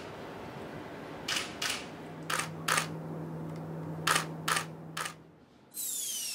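Camera shutter firing again and again, sharp clicks mostly in quick pairs, over a faint steady hum. Near the end a falling electronic sweep begins as music comes in.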